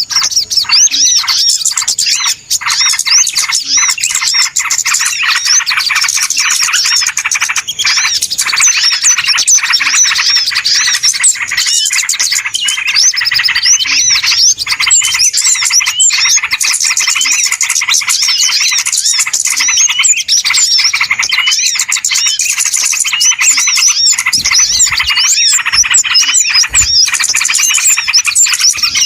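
A dense, noisy chorus of many small birds chirping and twittering without pause, their quick rising and falling notes packed closely together: a bird-lure recording meant to call small birds in.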